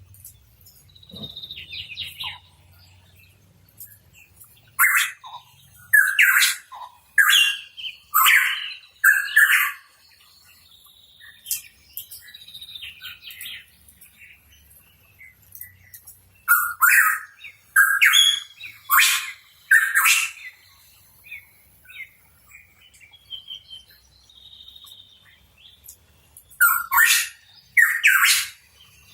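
Pitohui calling: three runs of loud, harsh calls about one a second, five, then five, then two near the end, with softer high chirps between the runs.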